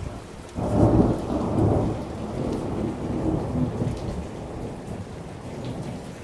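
Thunder during a rainstorm: a sudden clap about half a second in, rumbling and slowly fading over the next few seconds, over steady rain.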